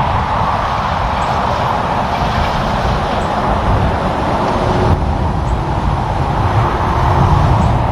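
Freightliner and Kenworth semi trucks driving by side by side on the highway: steady tyre noise over a low engine rumble, swelling slightly near the end.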